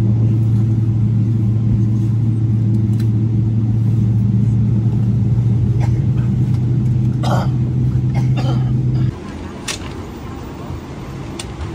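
A steady low mechanical hum, like an engine heard from inside a vehicle, that stops abruptly about nine seconds in and leaves a quieter background.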